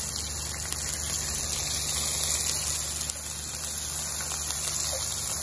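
Vegetables sizzling in hot oil in a frying pan, a steady hiss over a constant low hum.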